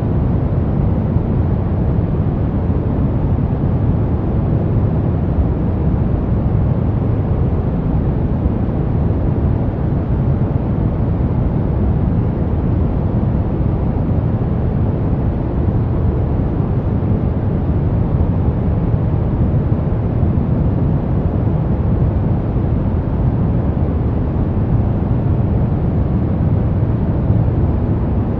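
Steady brown noise: an even, deep rumbling hiss with most of its weight in the bass, unchanging throughout.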